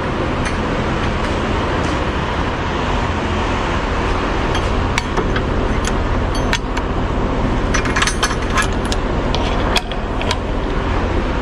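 Semi-truck engine running with a steady low rumble while the rig is manoeuvred at slow speed, with scattered sharp clinks and knocks through it.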